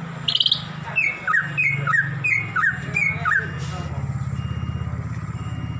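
Cucak ijo (leafbird) singing: one high rising chirp, then a quick run of about five repeated two-note slurred whistles, stopping about three and a half seconds in. Under it runs a steady low engine hum that pulses evenly.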